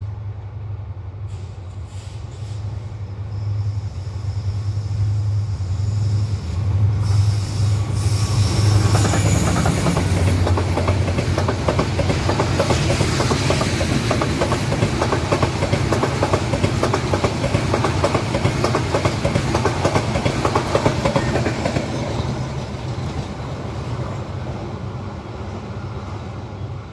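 A meter-gauge express train hauled by a diesel locomotive passing at speed. The locomotive's low engine drone comes first. From about eight seconds in, the coaches clatter past with rapid wheel knocks over the rail joints, and the sound fades as the train draws away near the end.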